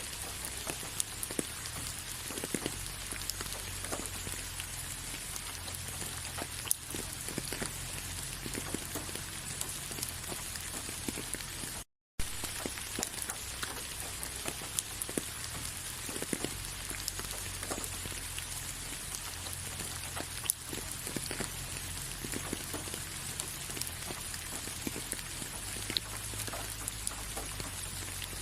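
Steady rain falling on a surface: a dense, even hiss scattered with many small drop ticks, with a low rumble underneath. The sound cuts out completely for a split second about twelve seconds in.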